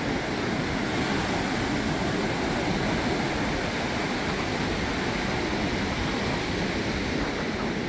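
Steady wash of sea surf on a beach, an even rushing noise without distinct breaks.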